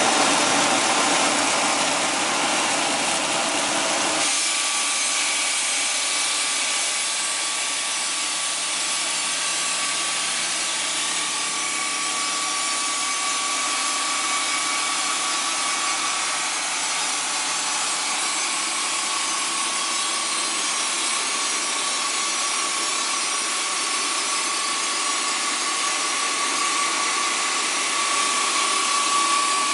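Polishing machine's brush tool running against a workpiece: a steady abrasive hiss with a faint whine. About four seconds in, the lower rumble drops away.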